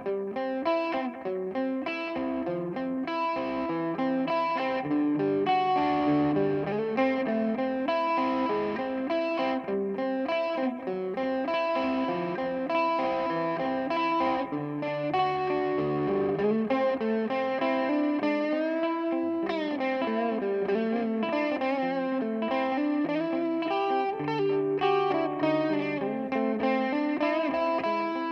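Electric guitar played through a Donner Yellow Fall delay pedal: a melodic line of sustained notes that overlap with their echoes, with some bent notes around the middle.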